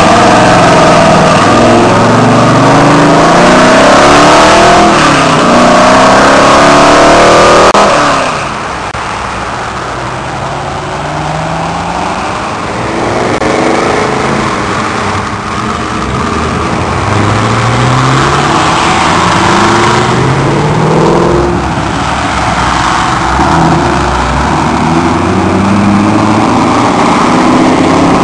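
Muscle car engines revving and accelerating, their pitch climbing in repeated rises as they wind up and shift. Loudest for the first eight seconds, then further, somewhat quieter runs of acceleration.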